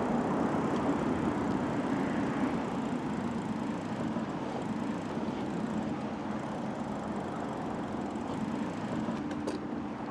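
Steady rushing ride noise of a bicycle rolling along a trail, with a faint low hum.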